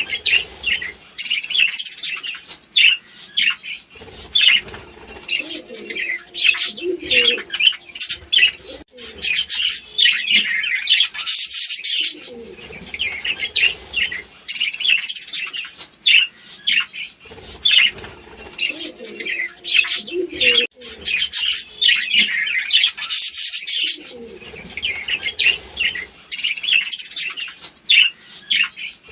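Small birds chirping and twittering in quick, busy bursts without a break.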